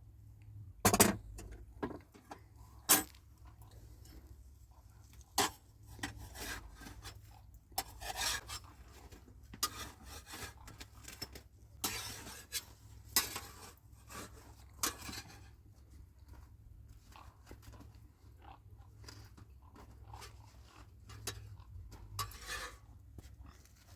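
Irregular clatter of objects being handled: scattered sharp knocks and clinks with short scraping sounds, loudest in two knocks about a second and three seconds in.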